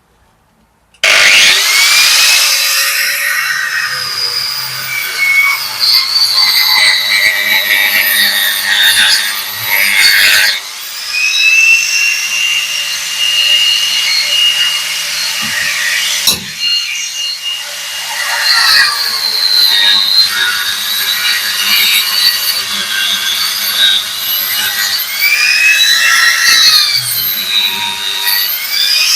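Angle grinder with a cutting disc starting up about a second in and cutting out mortar joints in brickwork. Its whine dips and recovers as the disc bites, with two brief breaks near the middle.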